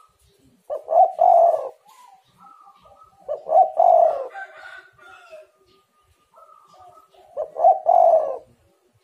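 Spotted dove (tekukur) cooing: three loud phrases about three seconds apart, each a couple of short notes running into a longer coo. Fainter, higher bird calls fill the gaps between phrases.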